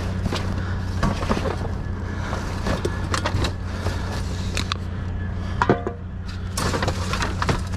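Small hard objects clicking and knocking irregularly as someone rummages through a box of discarded odds and ends, over a steady low hum. A brief squeak comes near the end.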